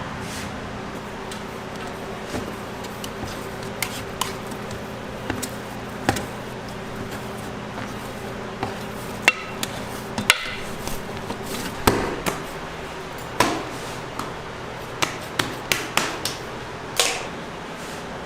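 Kitchen work: scattered short knocks and clinks of utensils and hard surfaces, more frequent in the second half, over a steady machine hum.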